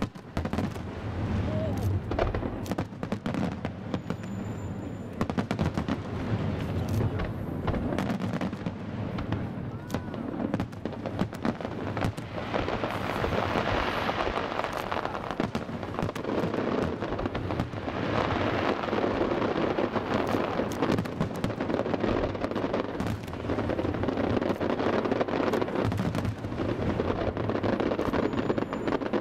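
Fireworks display: a constant run of bangs and booms over dense crackling, growing thicker and louder in the second half.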